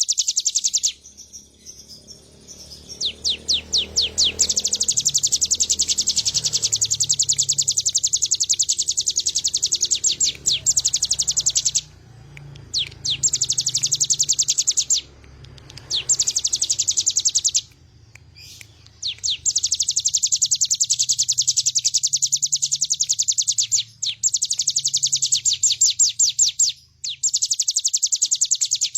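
Ciblek gunung (a prinia) singing steadily in long strings of rapid, high, closely repeated notes, broken by short pauses.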